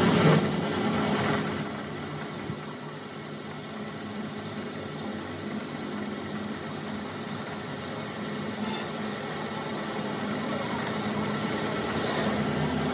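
A steady high-pitched mechanical squeal, one unbroken tone held for about eleven seconds over a low machine rumble, wavering briefly near the end.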